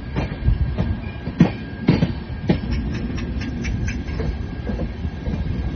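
Passenger train running on the rails, heard from an open carriage doorway: a steady rumble with sharp wheel clacks over rail joints about twice a second, strongest in the first half.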